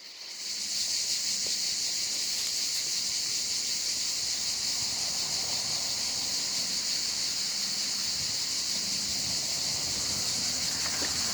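Steady high-pitched insect chorus, an even unbroken shrill hiss.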